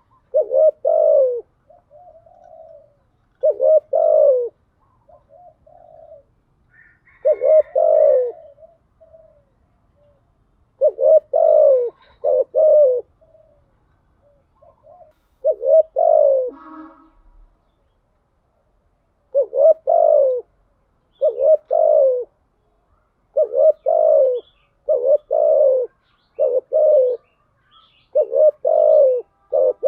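Spotted dove cooing: low, repeated coo phrases of two to four notes, separated by short pauses.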